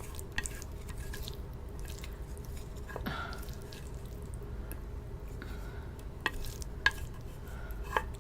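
Close-miked eating of instant noodles: scattered sharp wet mouth clicks and chewing, with a brief slurp about three seconds in, over a low steady hum.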